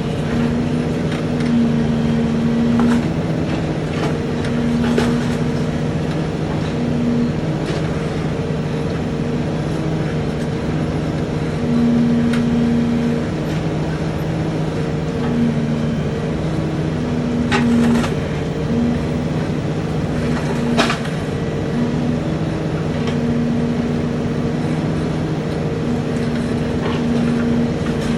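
Truck engine running steadily, with a higher hum cutting in and out every second or two. A few sharp cracks break through, the loudest about two-thirds of the way through.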